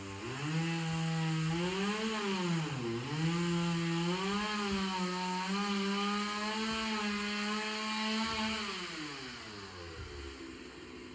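Two-stroke chainsaw engine revving. Its pitch dips sharply twice in the first few seconds, then holds high and steady, and falls back to idle near the end.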